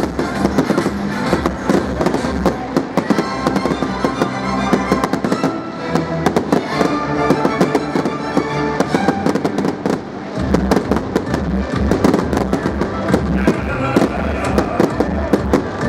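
Fireworks display: rapid, continuous crackling and popping of bursting fireworks, with music playing alongside.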